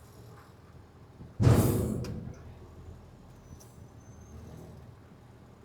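Front-load garbage truck running low and steady, with one sudden loud burst of noise about a second and a half in that fades away over about half a second.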